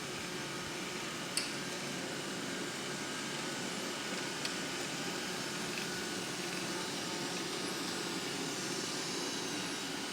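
Xiaomi S10+ robot vacuum running steadily, with one brief click about a second and a half in and a fainter one a few seconds later.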